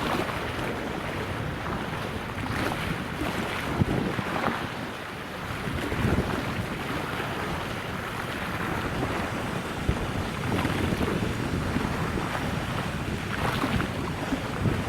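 Wind gusting across the microphone over a steady wash of water, in uneven swells with no clear engine tone.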